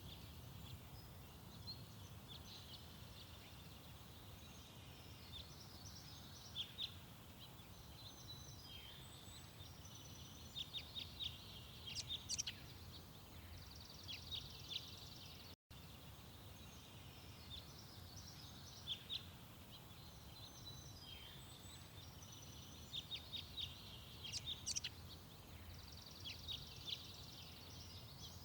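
Small garden birds chirping and twittering in quick short notes over a steady low background rumble. The sound cuts out for an instant about halfway through.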